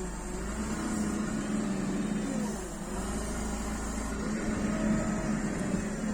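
Forklift running with its hydraulic lift being worked by the control levers: a steady hum, and a whine that dips and rises in pitch a couple of seconds in as the mast moves.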